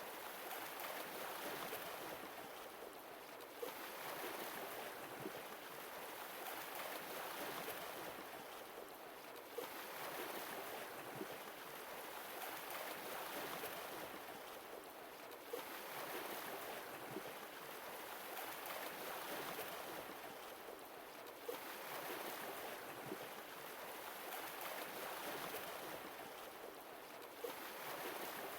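Sea waves washing onto a shore. The hiss of surf swells and falls back roughly every six seconds in a slow, even rhythm.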